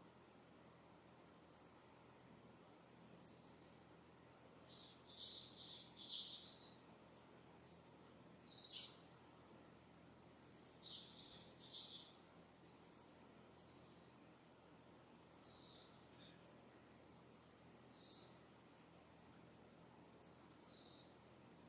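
Distant small birds chirping: short, high calls every second or two, with a busier run of overlapping calls in the middle, over a faint steady background hiss.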